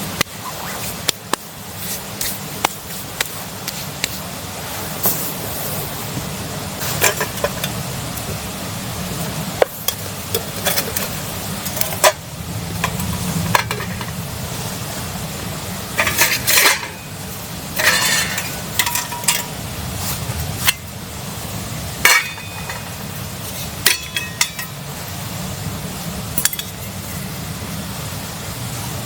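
Metal cooking utensils and camp cookware clinking, scraping and knocking irregularly over a steady low background hiss, with a few short ringing metal clatters about two-thirds of the way through.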